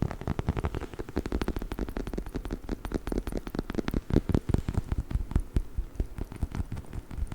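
Chicken-shaped dog toy being tapped and scratched with fingers and nails, rapid and irregular, many soft taps a second.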